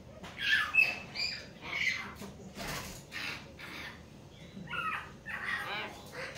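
Hill mynas squawking: a run of short, harsh calls, a brief pause, then another cluster of calls near the end.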